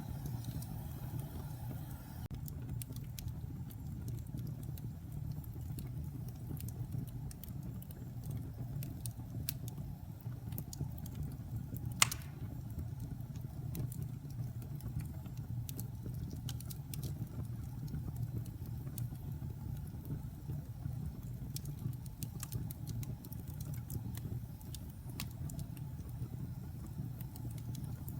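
Wood fire burning in a fireplace: a steady low rumble with scattered sharp crackles, and one loud pop about twelve seconds in.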